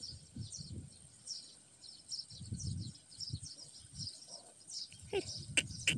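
Small birds chirping over and over, with a steady high insect drone behind them and low rumbling. About five seconds in come a few louder, sharper calls.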